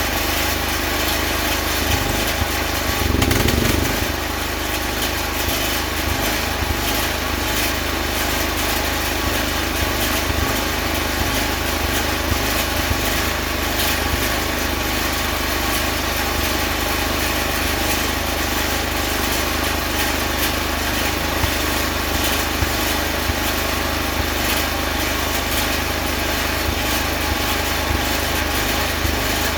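Electric welding in progress: a steady, continuous buzzing crackle with a hum under it, and a brief louder low rumble about three seconds in.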